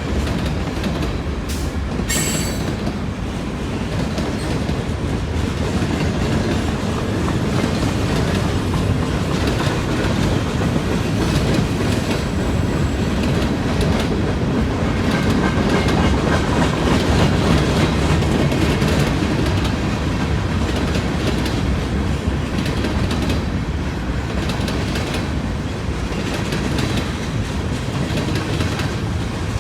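Freight train cars rolling steadily past on the rails, the wheels running continuously over the track, with a brief sharp click about two seconds in.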